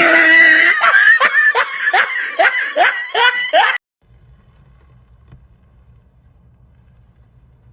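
A loud, rhythmic laugh-like voice, repeating about three times a second for nearly four seconds. It cuts off suddenly, leaving a faint low hum.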